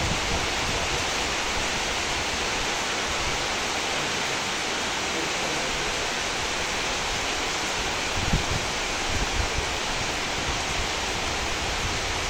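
Steady hiss of rain falling on trees and leaves, with a few low gusts of wind buffeting the microphone about eight to ten seconds in.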